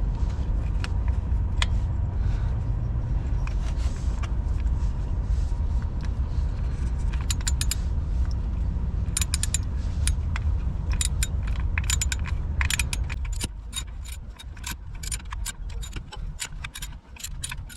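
Sharp, irregular metal clicks and clinks of a wrench and bolt as the new camshaft position sensor is tightened down in the engine bay, many of them in the second half. Under them runs a steady low rumble that drops away about thirteen seconds in.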